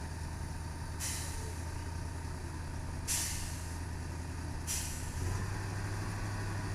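ZIL-131 army truck's V8 petrol engine running at low revs, its pitch rising slightly about five seconds in, with three short bursts of hissing air from the truck's pneumatic brakes.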